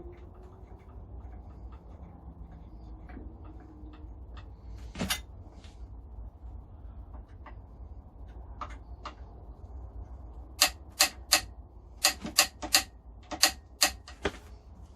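Metal grinder parts and hand tools being handled during assembly: faint scattered ticks, a single knock about five seconds in, then a run of about ten sharp clicks, roughly three a second, near the end, over a steady low hum.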